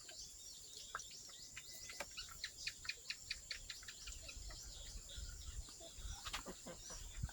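Faint birds chirping over a steady high insect drone, with a quick, even run of short chirps, about five a second, a couple of seconds in.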